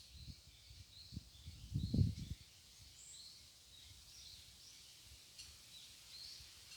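Small birds chirping: short, high calls repeated throughout. About two seconds in, a brief cluster of low thumps and rumbling is the loudest sound.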